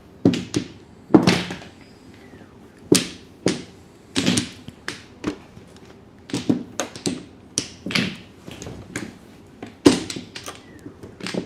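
Mahjong tiles clacking and knocking on the table as players draw and discard: about twenty sharp, irregular clicks, some in quick pairs.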